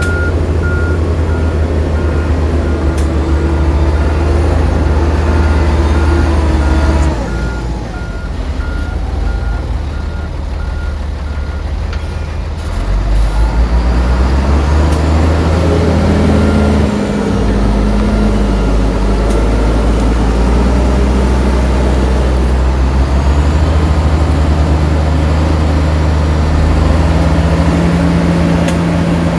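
Heavy diesel engines of earthmoving machinery working, with a reversing alarm beeping steadily for the first twelve seconds or so. The engine note drops back after about seven seconds, then revs up again a little later and stays loud.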